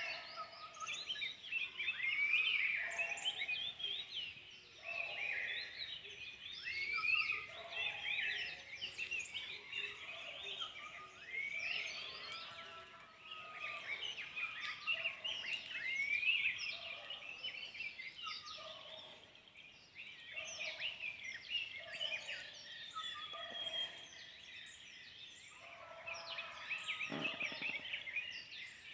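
A chorus of many forest birds calling at once: dense, overlapping chirps and quick whistles, with a lower call repeating underneath.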